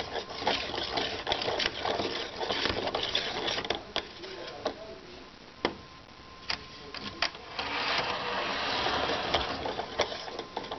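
HO scale model train cars being handled and moved by hand: a busy run of small plastic clicks, knocks and rattling, densest near the end.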